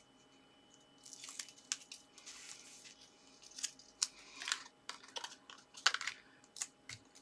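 Paper strips being handled, folded and pressed into place: rustling and crinkling with many sharp clicks and taps, starting about a second in.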